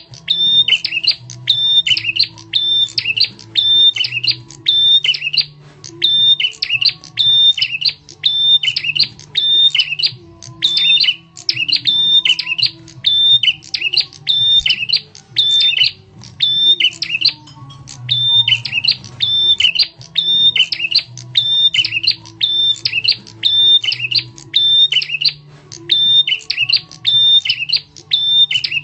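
Prenjak tamu songbird giving its loud, sharp lure call: rapid strings of high notes repeated in phrases with short gaps, over a faint low hum.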